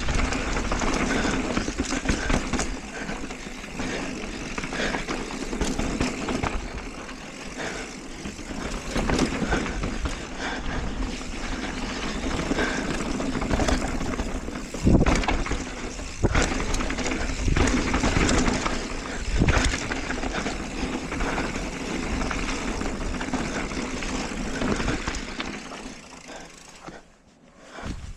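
Wind rush and tyre noise from a mountain bike descending a rough trail, with sharp knocks from bumps about fifteen seconds in and several more over the next few seconds. It dies down near the end.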